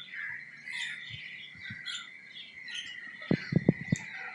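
Many birds calling at once: short, overlapping chirping calls over a steady background chorus, with a few low thumps about three seconds in.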